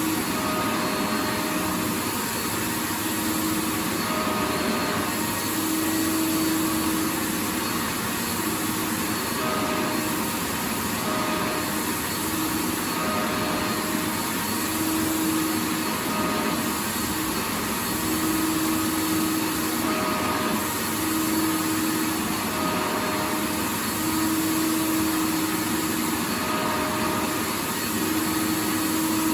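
A vacuum cleaner's motor runs continuously: a steady rushing drone with a faint whine that swells and fades every second or two.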